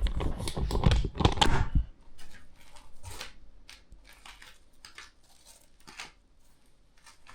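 Crinkling and rustling handling noises with clicks, dense and loudest for about the first two seconds, then thinning to scattered light clicks.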